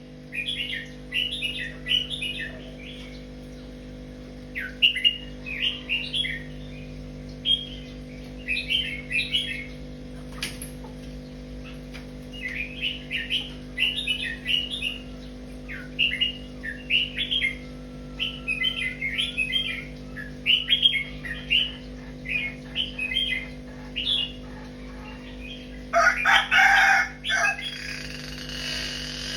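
Small birds chirping in short repeated bursts, with a rooster crowing loudly near the end. A steady low hum runs underneath.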